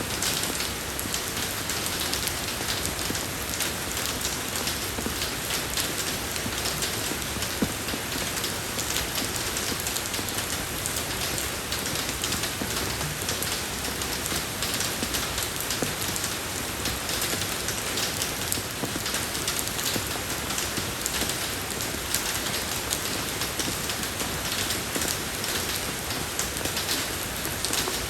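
Steady rain falling on a road: an even hiss of rain made of many small, sharp drop hits, holding the same intensity throughout.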